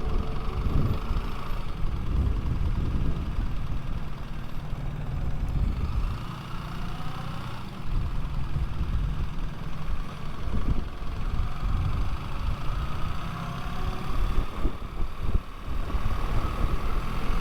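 Motorcycle running on the move: a heavy, uneven low rumble with a steady mid-pitched hum, the loudness rising and falling.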